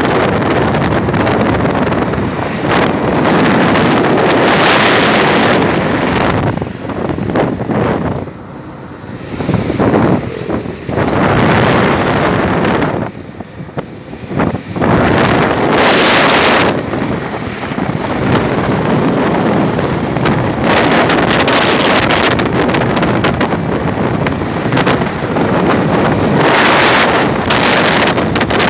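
Wind buffeting the microphone in strong, uneven gusts, with two brief lulls.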